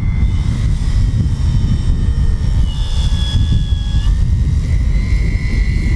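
Electric motor and propeller of a large RC Pilatus PC-6 model in flight at part throttle, a steady whine that dips in pitch about two-thirds of the way in and rises again near the end, over a heavy low rumble.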